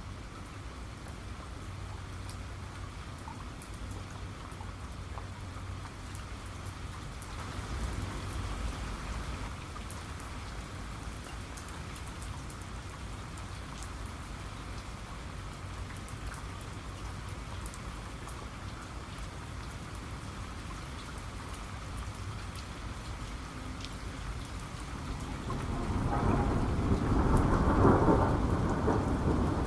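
Steady rain with scattered drop ticks and thunder rumbling: a low rumble swells briefly about eight seconds in, and a louder peal of thunder builds near the end.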